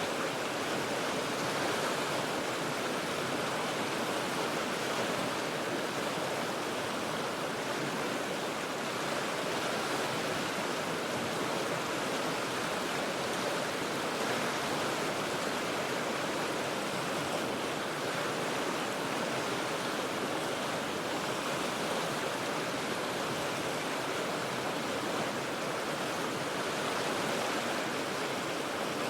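The Cheat River rushing steadily over its rocks, heard from high above: an even, unbroken wash of water noise with no single splashes standing out.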